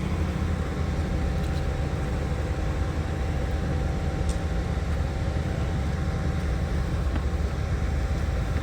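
Steady low rumble of an idling vehicle engine, with a faint constant hum above it.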